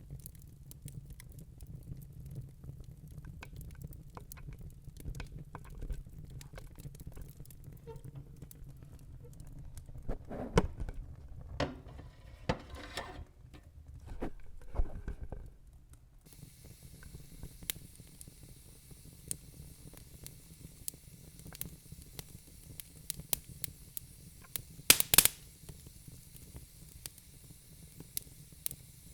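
Wood fire in a fireplace crackling, with irregular sharp pops and snaps of burning logs over a low rumble of flame. A cluster of louder pops and hissing comes about a third of the way in, and a little past halfway the low rumble drops away, leaving a steady high hiss under the crackling.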